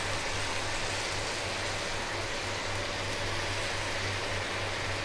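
Onions, tomatoes and green chillies sizzling steadily in hot oil in a steel karahi.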